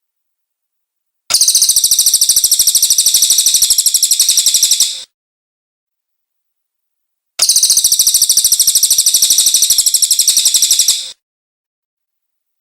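Cililin bird song played twice: each time a rapid, high-pitched trill of quickly repeated notes lasting about four seconds, with a gap of a couple of seconds between the two bouts.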